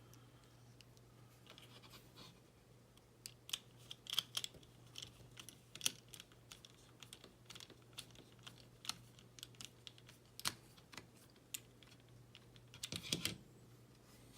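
Small clicks and taps of tiny screws and plastic model parts being handled and fitted, scattered irregularly, with a denser cluster about four seconds in and another near the end.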